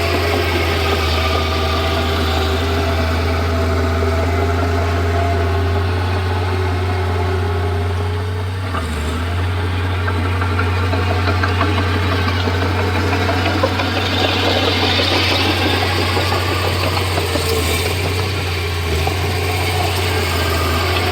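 Komatsu D31P bulldozer's diesel engine running steadily as it works, with a brief drop in the engine note about nine seconds in.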